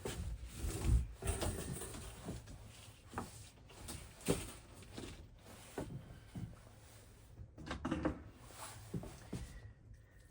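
Irregular knocks, clunks and scraping of objects being handled, with a dozen or so separate thuds spread through.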